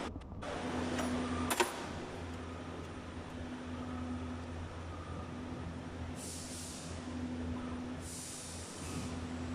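CNC wire bending machine running, with a steady low hum and a tone that rises and falls away in cycles. One sharp click comes about a second and a half in, and two short hisses come in the second half.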